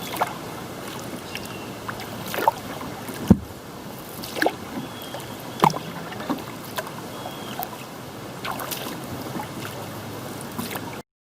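Kayak paddle strokes dipping into the water, a splash about once a second over a steady hiss of wind and water. The sound cuts off suddenly near the end.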